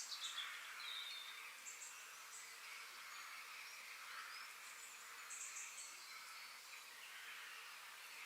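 Forest ambience: birds calling in short high chirps and trills over a steady high hiss, with a falling whistled call at the start.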